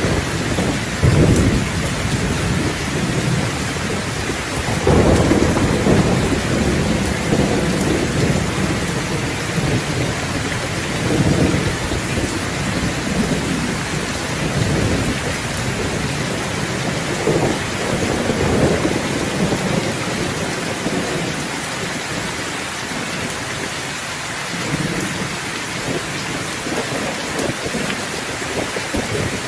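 Steady rain falling, with rolling thunder rumbling low several times through it; the strongest rumbles come about a second in and around five seconds in.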